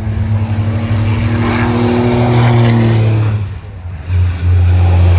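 Race trucks' big turbo diesel engines running flat out, one steady engine note that fades away about three and a half seconds in, then another truck's engine coming in loud a moment later.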